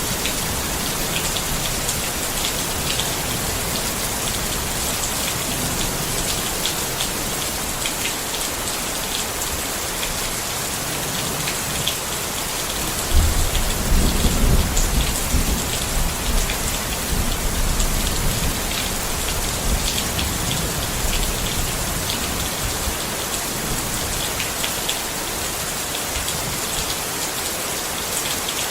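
Steady rain falling on a tent, with individual drops ticking on it. About thirteen seconds in, a low roll of thunder comes in suddenly and rumbles for several seconds before fading.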